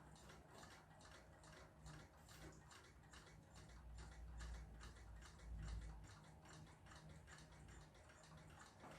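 Faint, even ticking, several ticks a second, with a brief low rumble a little past the middle.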